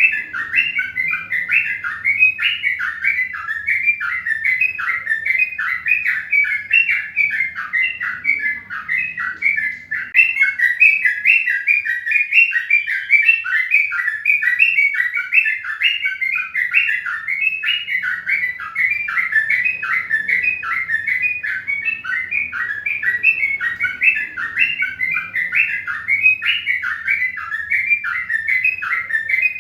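A bird chirping continuously in rapid, repeated short notes.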